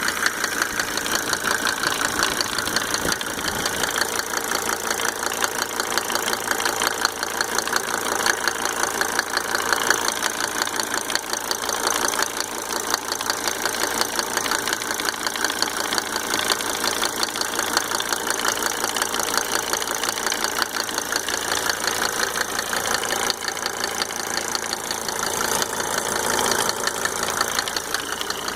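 Mercedes-Benz W124 300D's 2.5-litre five-cylinder diesel running steadily with a fast, even ticking clatter. The owner cannot trace the tick, which remains with five newly rebuilt injectors and new nozzles fitted.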